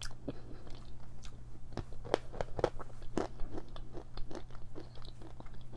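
A person biting and chewing a small piece of edible clay close to the microphone: a run of sharp, irregular crunches.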